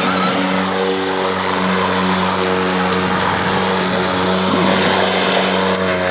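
EGO 56-volt self-propelled electric lawn mower running at full power while mowing, its blade motor giving a loud, steady hum at an unchanging pitch.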